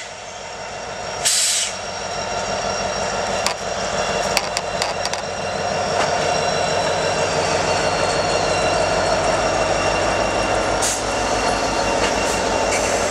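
A circus train rolling slowly past on the rails, its steady rumble growing louder about halfway through. There is a short hiss about a second in and a few sharp clicks a few seconds in.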